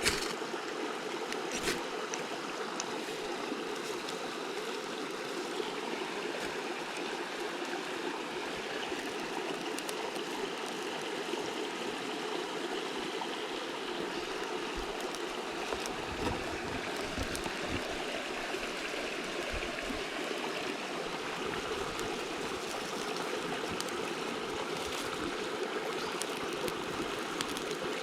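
Mountain stream flowing steadily, a constant rush of water, with a few soft clicks and low knocks.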